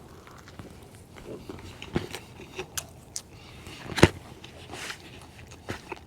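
Scattered clicks and crunches of a person eating a meal, with one sharp knock about four seconds in.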